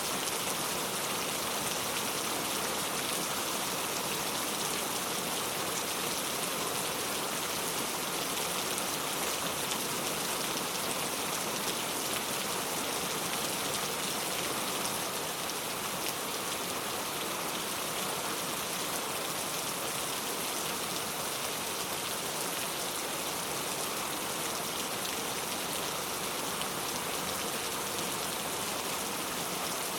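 Heavy rain falling steadily on surfaces, a dense even hiss of many drops.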